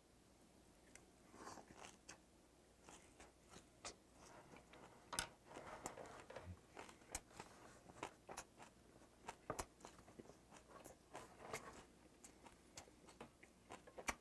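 Close, quiet chewing of a mouthful of beef jeon and shredded green onion salad: soft wet crunches and small mouth clicks that start about a second in and go on steadily.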